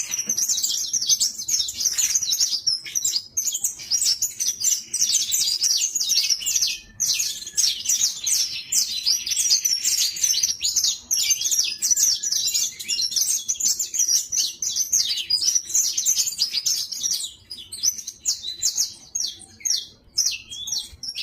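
Young saffron finch (canário-da-terra) twittering and chirping in a rapid, continuous stream of high notes, with a short break about a third of the way in and a quieter, patchier spell near the end.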